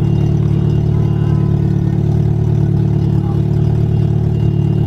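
A car engine running at a steady speed with a low, even drone that neither rises nor falls.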